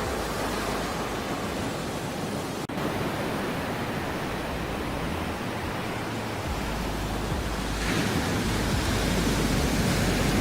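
Ocean surf: a steady rush of waves washing in, swelling louder near the end.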